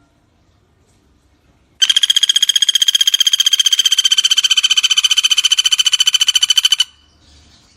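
A pelatuk bawang woodpecker gives one long, rapid rattling call, starting about two seconds in. It is a run of sharp notes at about a dozen a second, steady in pitch, lasting about five seconds.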